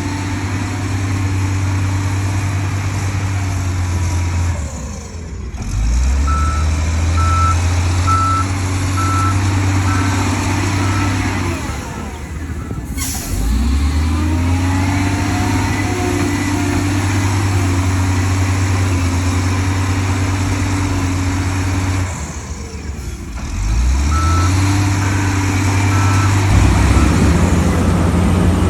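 Heavy diesel engine of earthmoving machinery running under load, its note sagging and picking back up three times. A reverse alarm beeps about once a second during two stretches, and there is one short hiss near the middle.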